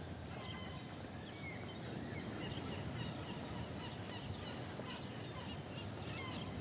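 Outdoor promenade ambience: a steady background hum and murmur with many small birds chirping over it in short, quick calls.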